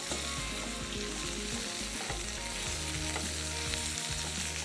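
Chopped onion with ginger-garlic paste and green chilli paste sizzling steadily in oil in a frying pan while being sautéed and stirred.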